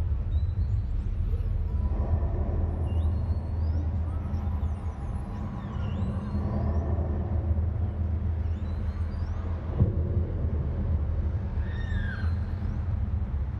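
A steady low rumble, with faint short high chirps scattered over it.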